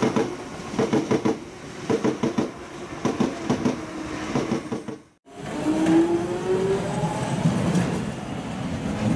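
Train wheels clattering over rail joints in regular groups of clicks. Then, after a brief cut, a London Underground Jubilee line 1996-stock train runs past, its traction motor whine rising in pitch as it picks up speed.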